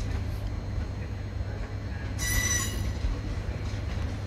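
Electric multiple unit train rolling slowly through the station with a steady low rumble; about two seconds in, its wheels give a brief high-pitched squeal lasting under a second.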